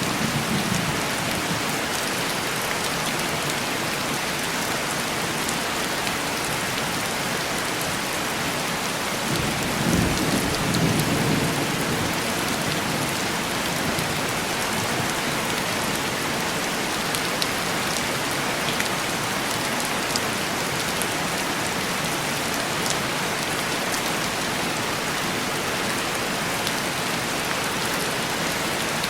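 Heavy rain falling steadily on a window, with a low rumble of thunder about ten seconds in and the fading tail of another rumble at the very start.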